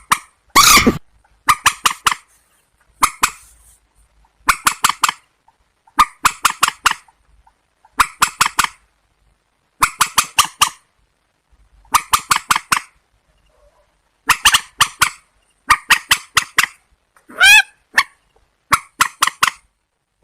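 Rail calls of the purple swamphen and white-breasted waterhen type: loud, harsh nasal notes in short bursts of three to five, repeated about once a second with brief pauses between bursts.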